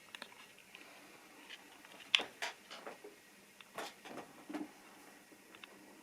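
Light, irregular clicks and taps from small plastic model railway rolling stock. The sharpest click comes about two seconds in, and a few more follow over the next two and a half seconds.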